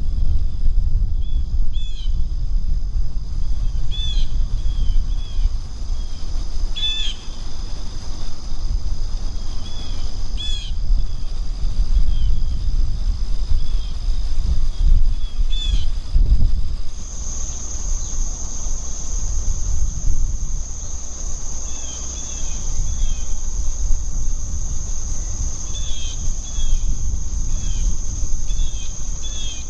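Short bird calls, several in quick succession at times, over a steady high insect trill that shifts higher and louder about halfway through. A low rumble sits under it all and is the loudest part.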